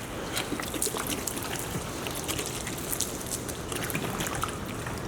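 Water being poured from a container over a car and its snow plow, splashing and trickling off with many small drips and spatters as the dirt is rinsed away.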